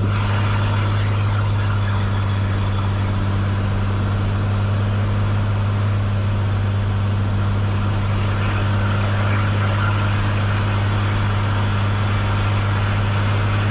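Cessna 182 Skylane's piston engine and propeller droning steadily in the cabin: a constant low hum with a second, higher tone above it and no change in pitch, during the descent for landing.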